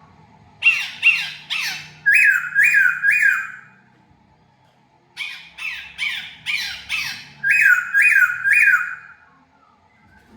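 Laughingthrush calling loudly in two harsh phrases, each a quick run of six or seven sharp notes that drop in pitch, with a pause of about a second and a half between them.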